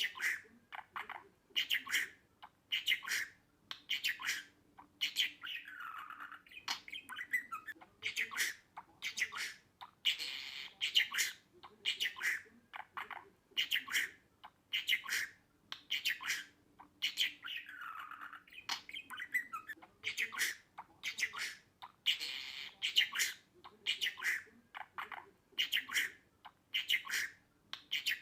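Budgerigar chirping and squawking in a rapid run of short, sharp calls with some falling notes. The same stretch of calls seems to repeat over and over.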